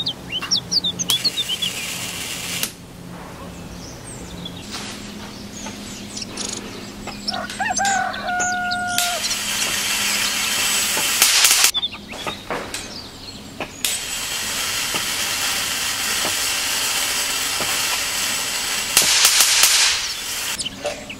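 High-voltage discharge from a homemade ion plasma thruster's electrodes: a steady hiss that comes in two long stretches, the second running longer and growing louder near the end. Before it there is a low hum with a brief tone about eight seconds in.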